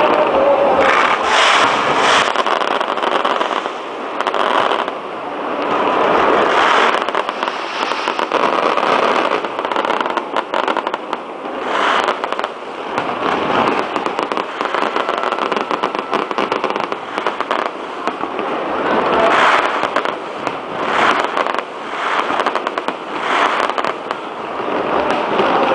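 Fireworks going off continuously: a dense, loud crackling and banging of many overlapping bursts and pops, with no pause.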